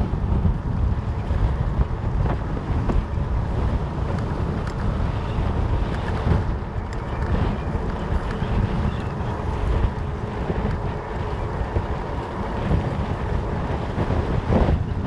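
Wind buffeting the microphone over the rumble of a fat bike riding on 4.4-inch Schwalbe Jumbo Jim tyres, with a few small clicks and knocks.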